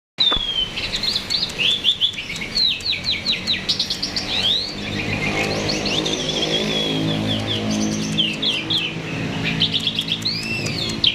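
A jalak (starling) singing loudly and fast: a dense run of chirps, trills and whistled up-and-down glides. From about halfway a low hum runs underneath the song.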